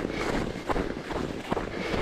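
A runner's footfalls at a steady pace, about two to three strides a second, with low wind rumble on the microphone.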